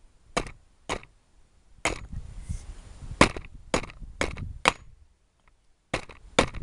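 Small hatchet chopping into a block of wood: about nine sharp chops, two, then one, then four at about two a second, then two more after a short pause.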